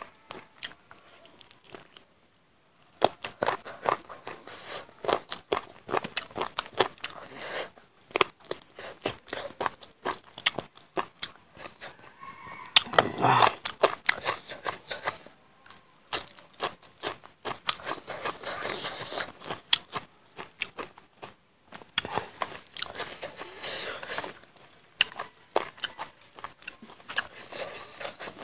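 Close-miked eating of chicken curry with rice: chewing and crunching with wet mouth sounds, coming in bursts with short pauses and loudest about halfway through.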